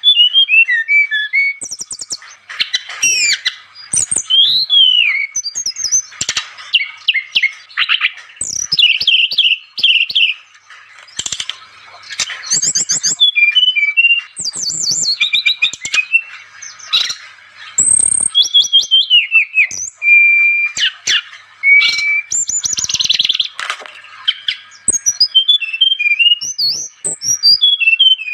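Brown-chested jungle flycatcher (sikatan rimba dada coklat) singing loudly and without pause: quick, varied phrases of sweeping whistles and rapid trills follow one another with only short gaps.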